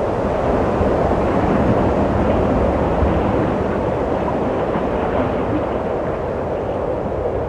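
Steady wind blowing, a continuous rushing noise that swells a little around two seconds in.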